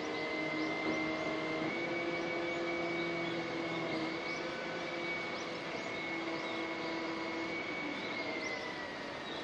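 Steady rainfall, with a continuous mechanical drone over it made of several held tones that dip slightly in pitch near the end.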